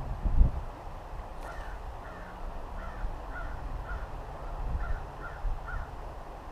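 A bird calling in a run of about eight short, repeated calls, roughly two a second, starting about a second and a half in, over a low rumble. A dull low thump near the start is the loudest sound.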